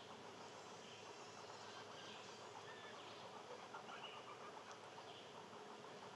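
Faint outdoor nature ambience: a soft steady hiss with a few faint, short bird chirps scattered through it.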